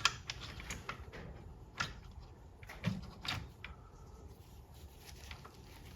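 A few light clicks and knocks of small transmission parts being handled and fitted: the control unit going onto the valve body, with one soft thump about three seconds in.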